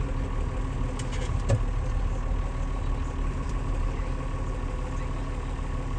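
Farm tractor engine running steadily at low revs, with a couple of faint clicks about a second in.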